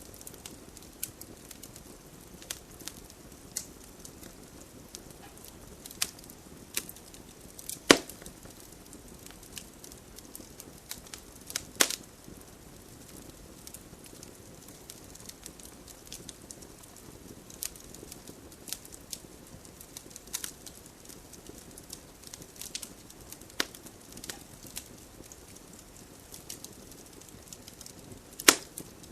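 Wood campfire burning, with a soft low rumble of flames and irregular crackles and sharp pops; the loudest pops come about 8 s in, about 12 s in and near the end.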